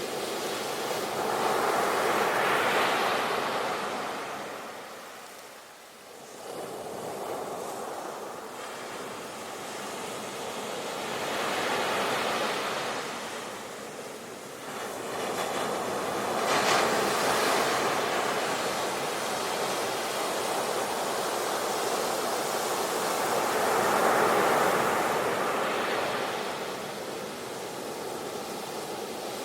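Ocean surf: a continuous rushing wash of waves that swells and fades, with about four surges breaking over the stretch and a brief lull between the first two.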